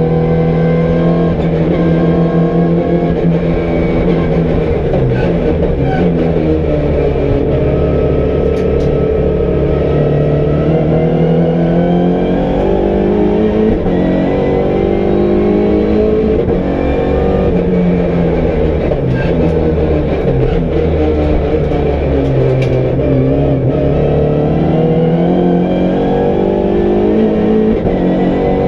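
MINI Challenge race car's four-cylinder engine heard from inside the stripped cabin, revving up through the gears and easing off again, its pitch rising and falling over and over.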